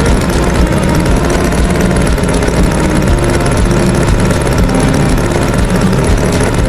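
Tractor engine running steadily at idle, a continuous low engine sound effect.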